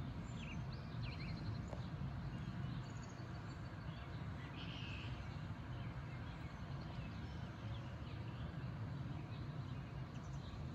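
Scattered bird chirps and short calls over a steady low rumble.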